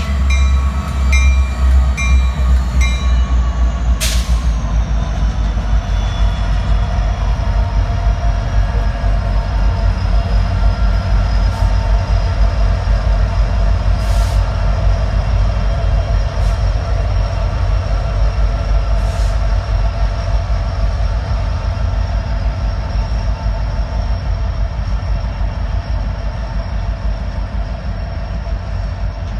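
Norfolk Southern intermodal freight train passing close by, its diesel locomotives and steel wheels making a steady heavy rumble that tapers slightly toward the end. A grade-crossing bell rings evenly for the first three seconds. A faint engine tone drops slightly in pitch as the locomotives go by, and a few sharp clicks come from the wheels over the rail as the cars roll past.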